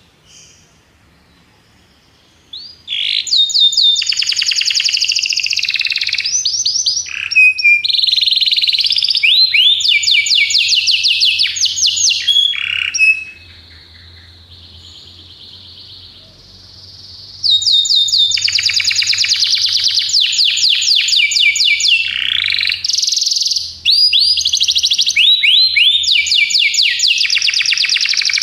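Belgian canary singing: long phrases of fast, rolling trills and chirps. The song starts about three seconds in, softens to a quieter stretch past the middle, then comes back loud.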